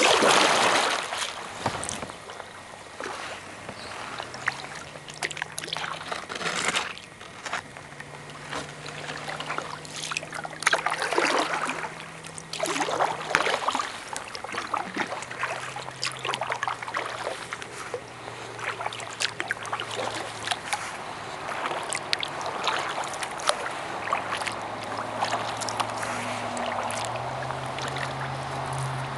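Kayak paddle strokes in the water: repeated splashes and drips off the blade every second or two. A low steady hum runs underneath, stepping up and down in pitch a few times.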